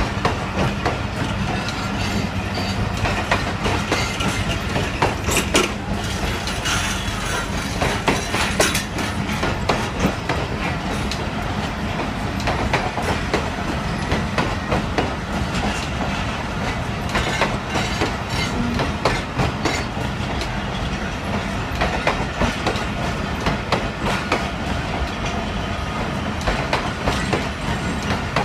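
Passenger train coaches rolling past along a platform, wheels clicking and knocking irregularly over rail joints above a steady low rumble.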